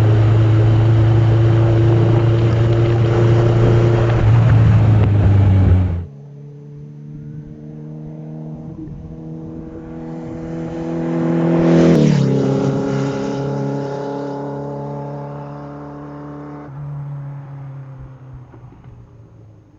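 A car engine running loudly, cutting off abruptly about six seconds in; then a quieter engine that swells to a peak about twelve seconds in and fades away, like a car driving past.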